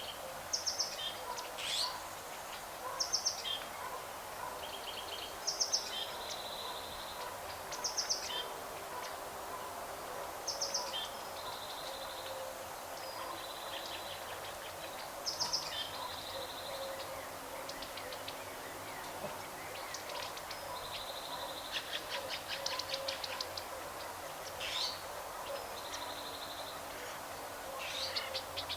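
Birds calling: short high chirps every couple of seconds and brief rapid trills, over a steady background hiss.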